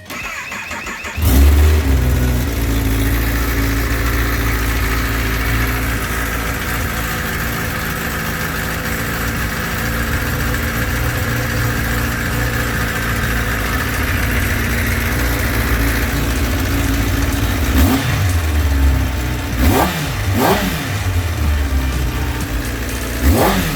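Kawasaki ZX-10RR's inline-four engine, on its stock exhaust, is cranked on the starter and catches about a second in, then idles steadily. Near the end it is blipped four times with short throttle revs that rise and fall.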